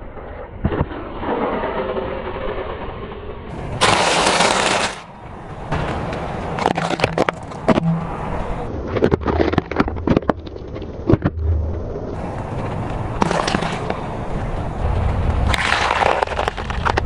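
A car tyre rolling over and crushing brittle objects: a run of sharp cracks, crunches and crackles in several short segments, densest about four seconds in.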